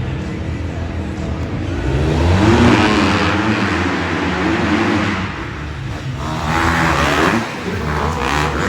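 Several dirt bike engines revving and accelerating hard, their pitch rising and falling as they shift, loudest about two to three seconds in with another surge near seven seconds.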